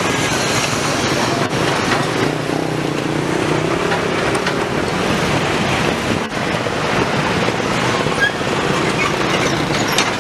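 Diesel locomotive and rail tank wagons moving during shunting: a steady, unbroken running noise of engine and wheels on track.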